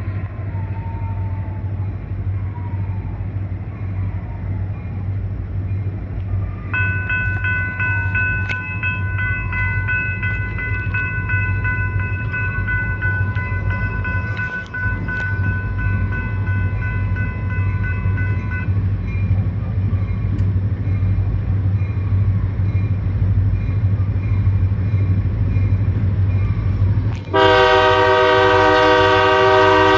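Diesel locomotives (EMD SD40-2 and GP40-3) running with a steady low rumble. A high, steady squeal sounds for about twelve seconds in the middle, and near the end a loud locomotive air horn blast starts and holds.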